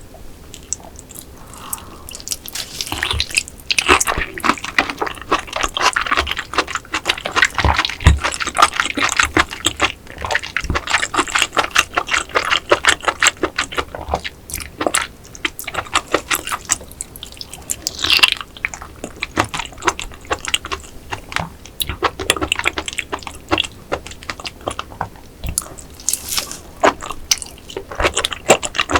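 Close-miked chewing of a giant raw rock oyster in a vinegar dressing: a dense run of wet clicks, smacks and squelches from about two seconds in.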